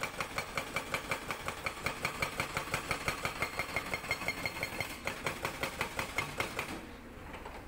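Sangdo SD220 hydraulic breaker on a CAT 320D excavator hammering rock in a fast, even rhythm of about six blows a second. The hammering stops near the end.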